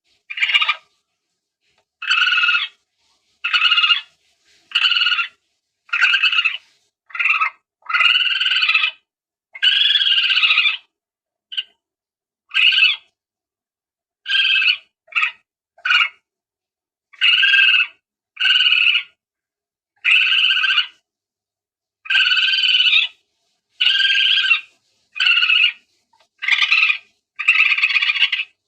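Palm civet lure call: short pitched calls, each with several stacked tones, repeated over and over with silent gaps between them. Some calls stand alone and some come in quick pairs.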